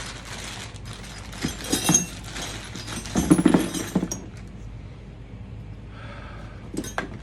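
Loose metal parts of a disassembled semi-auto 12 gauge shotgun clinking and rattling as they are handled in their box, in two bursts of clatter, the louder one about three seconds in, and a couple of sharper clicks near the end.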